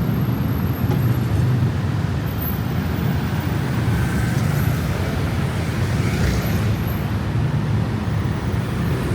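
Steady city road traffic: a continuous low rumble of car, bus and truck engines and tyres.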